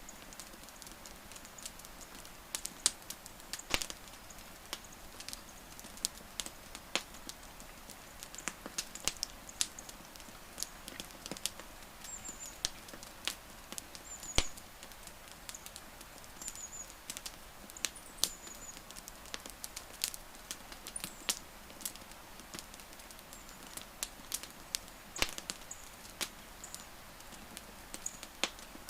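Wood fire crackling: irregular sharp pops and snaps over a faint steady hiss, with a few short high chirps in the middle.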